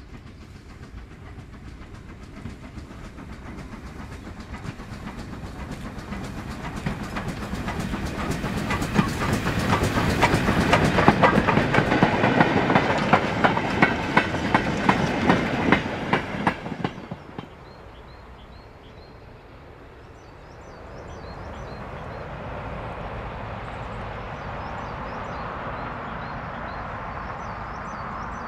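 A steam-hauled train passing close by, its wheels clicking rapidly over the rail joints as it comes nearer and louder. The noise falls away sharply about 17 seconds in, leaving a steady outdoor hiss with birds chirping.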